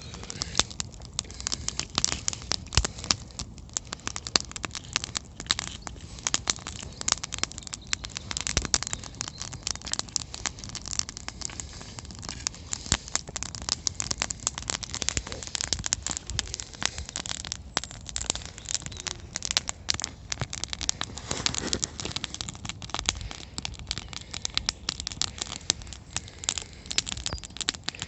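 Wood campfire crackling, with dense irregular pops and snaps over a faint hiss.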